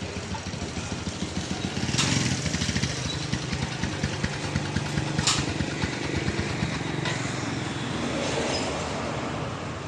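A motorcycle engine running close by, swelling about two seconds in and easing off near the end, with two sharp metallic clicks along the way.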